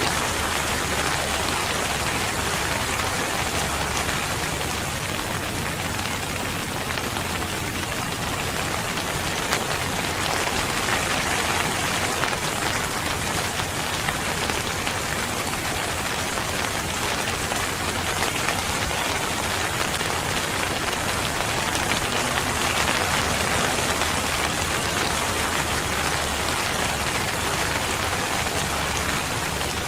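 Steady rain falling and pattering on a surface.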